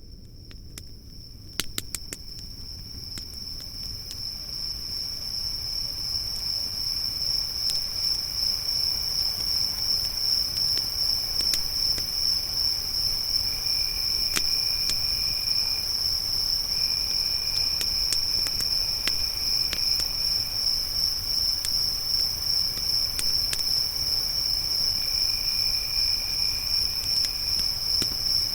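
A chorus of crickets chirping in a steady high trill that swells in over the first several seconds, with a second, lower insect trill starting and stopping from about halfway. Scattered sharp crackles from a campfire, clustered near the start.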